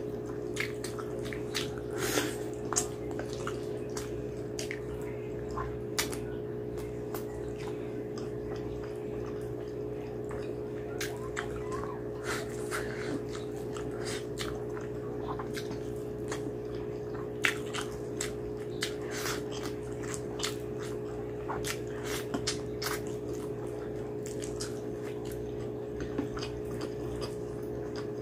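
Close-miked wet chewing and lip-smacking of someone eating mutton curry and rice by hand, with many irregular sharp mouth clicks. A steady low hum runs underneath.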